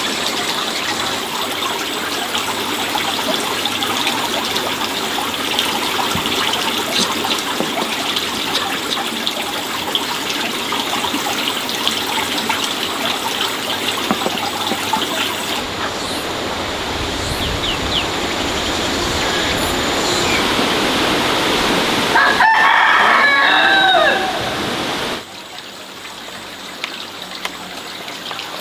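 Water splashing and trickling steadily, then a rooster crows once about three quarters of the way through, the loudest sound here. Just after the crow the water sound drops away suddenly.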